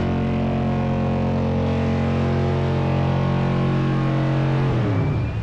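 Car engine held at a steady speed. Near the end the revs drop away and the pitch falls.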